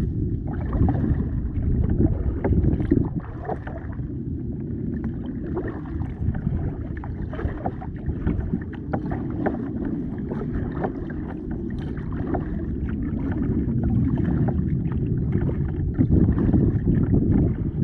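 Kayak being paddled: paddle blades dipping into the river and dripping, heard as many small splashes and drips over a steady low rumble on the microphone.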